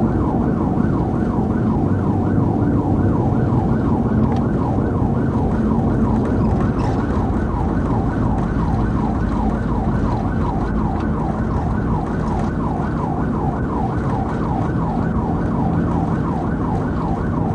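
Police car siren in rapid yelp mode, rising and falling about three times a second without a break. Under it runs the steady rumble of the cruiser's engine and tyres at pursuit speed.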